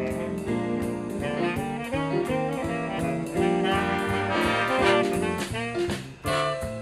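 A children's jazz big band plays a swing tune live, with saxophones, trumpets and trombones together over a steady drum beat. The sound briefly thins a little after six seconds, then the full band comes back in.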